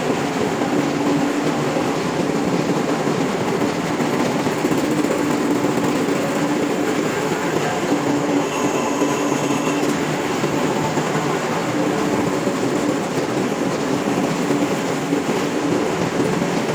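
Ship's engine room machinery running: a loud, steady mechanical drone with a low hum, and a faint high whine briefly about halfway through.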